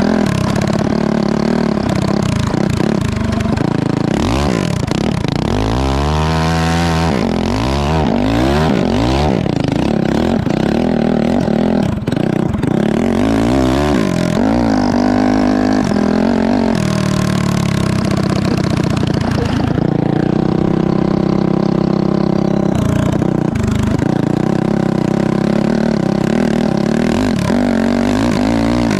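Honda CRF450 single-cylinder four-stroke dirt-bike engine driving a go-kart, loud, revving up and down repeatedly through the gears, then holding steadier revs for stretches in the second half.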